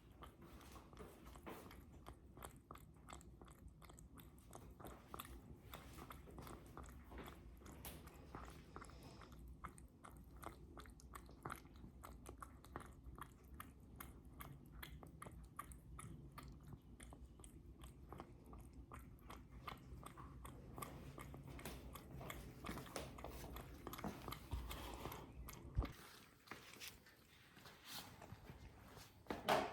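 A cat chewing crunchy food, a faint, rapid run of small crunches, with a sharper knock near the end.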